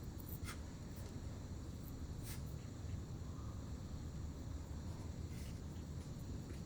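Faint clicks and light scratching of hand tools working coarse clay, a few separate ticks over a steady low hum.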